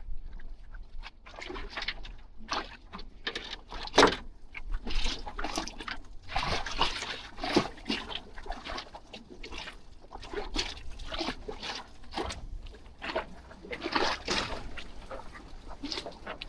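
Water lapping and splashing irregularly, in small bursts, against the jetty.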